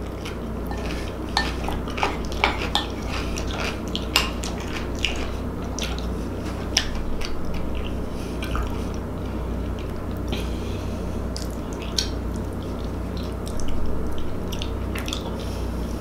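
Close-miked chewing: wet mouth clicks and smacks at irregular intervals, over a steady low hum.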